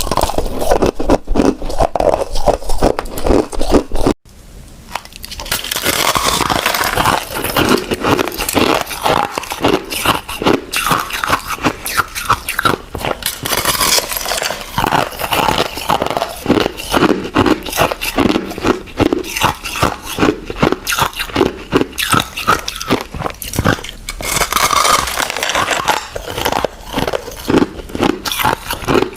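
Ice being bitten and chewed close to the microphone: a rapid, crisp crunching and crackling that breaks off for a moment about four seconds in, then carries on steadily.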